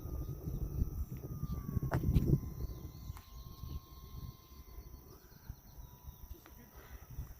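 Distant whine of the FMS Cessna 182 RC plane's electric motor and propeller in flight, a thin steady tone that sinks slowly in pitch. Under it runs a low rumble of wind on the microphone, heaviest in the first half.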